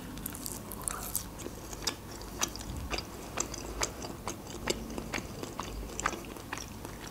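A person chewing a slice of salami: scattered, irregular soft mouth clicks, a few each second.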